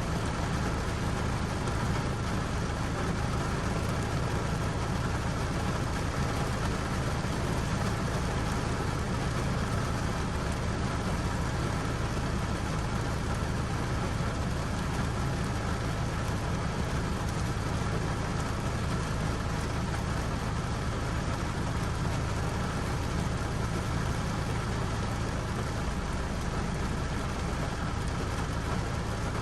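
Steady rain falling, an even hiss with a low continuous rumble underneath that does not change.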